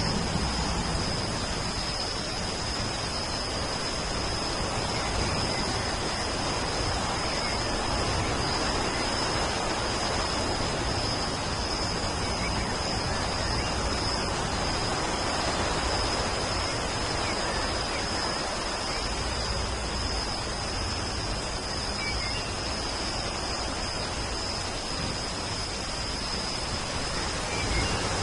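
Steady rain falling, an even unbroken hiss, with a thin steady high note above it and a few faint, tiny chirps.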